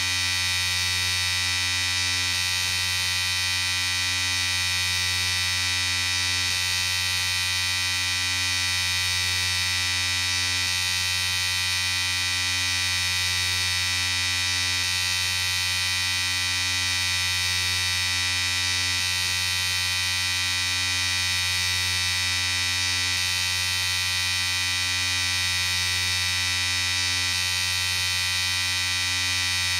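Electric shaver running continuously with a steady, even buzz.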